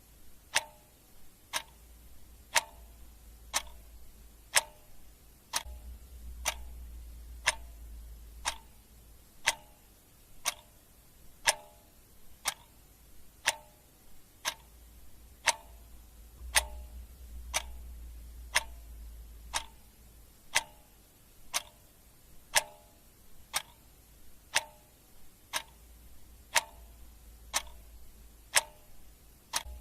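Clock ticking steadily, about two ticks a second, in a tick-tock pattern alternating stronger and weaker beats, over a faint low rumble that swells and fades.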